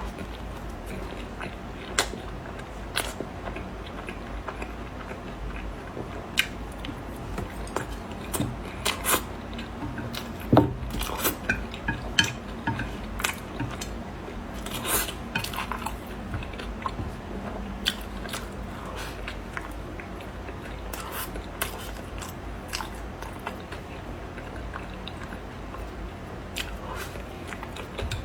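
Close-miked eating: a person chewing and biting food, with scattered sharp clicks and clinks of utensils against a dish.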